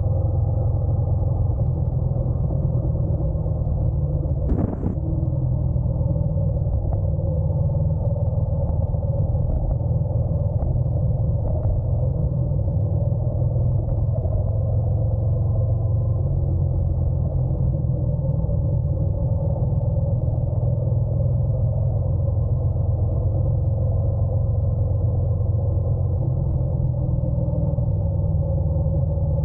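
Honda NC750X DCT motorcycle's parallel-twin engine running steadily on the move, under a low, even rumble. One brief click about five seconds in.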